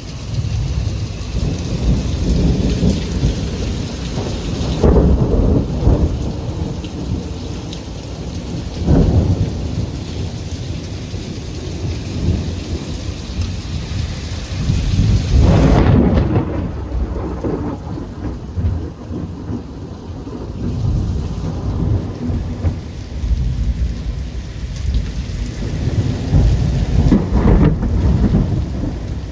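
Thunder rumbling and rolling over steady rain in a thunderstorm, swelling louder several times. The rain's hiss thins out about halfway through.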